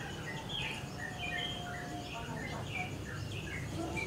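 Small birds chirping, many short high notes several a second, over a steady low rumble.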